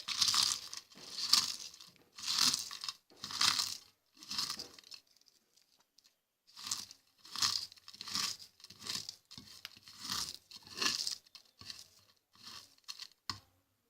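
Dry boiled eggshells being crushed into small pieces, crackling in a series of short crunches about once a second, with a brief pause midway.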